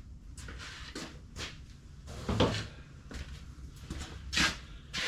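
Several short knocks and clunks of tractor parts being handled, the two loudest about two and a half and four and a half seconds in.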